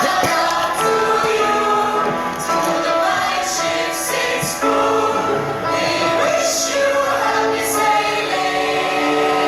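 A group of voices singing together in choir style over musical accompaniment, holding long notes.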